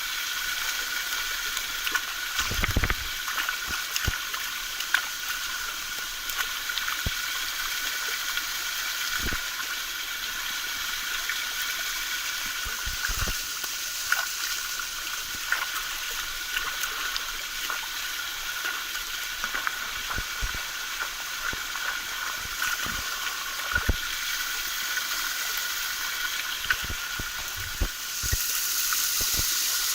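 Small mountain waterfall pouring steadily, a continuous hiss of falling water with a few short low thumps. About two seconds before the end it grows louder and brighter.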